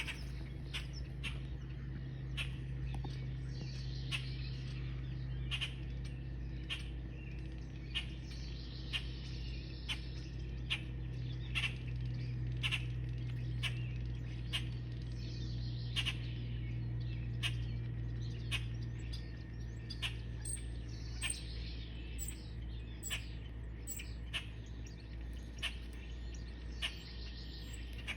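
Birds chirping: many short, sharp calls repeated irregularly, roughly one or two a second, over a steady low hum.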